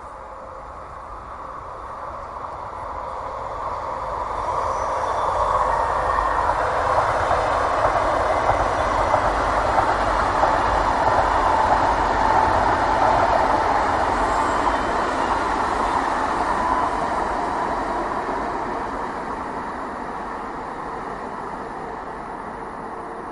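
TGV high-speed train passing at speed: a rushing rail noise that swells over the first six seconds, holds, then fades slowly as the train draws away.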